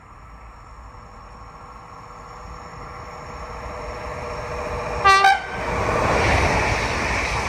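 A train approaching on the main line, its running noise building steadily, sounds two short horn blasts about five seconds in and then passes close by with a loud rumble of wheels on rail.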